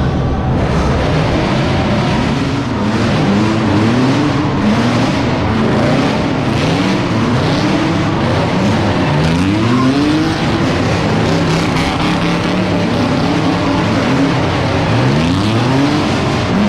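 A car engine revving hard again and again, its pitch rising in quick repeated sweeps, over a loud, dense background of engine and exhaust noise.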